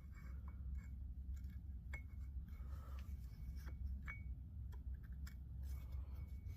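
Light metallic clicks and clinks, scattered irregularly, as the steel plates, friction discs and washers of a Sure-Grip limited-slip clutch pack are handled and lined up by hand.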